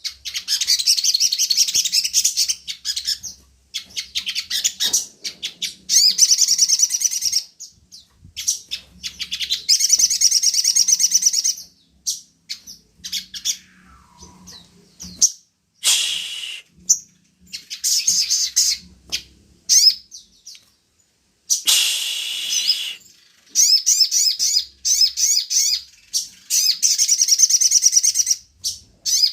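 Sogon bird song: long bursts of rapid, high chattering trills, each lasting a couple of seconds, repeated again and again with short gaps and scattered single call notes between. It is the kind of loud, continuous 'gacor' song played as a lure to set a caged sogon singing.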